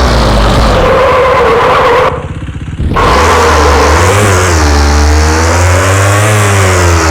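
KTM Duke 390 single-cylinder motorcycle engine revving hard, its pitch rising and falling. About two seconds in, the throttle closes briefly and the engine drops back to a low putter for under a second before revving up again.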